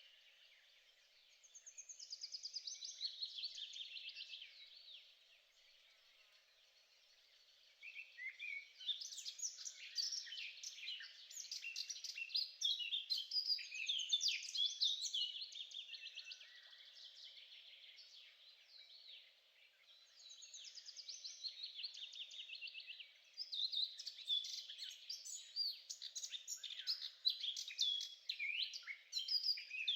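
Songbirds singing in long phrases of rapid chirps and trills, with short pauses between phrases.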